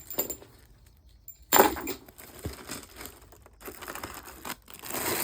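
Packaging crinkling and tearing as it is opened by hand, in sudden rustles with the loudest about a second and a half in.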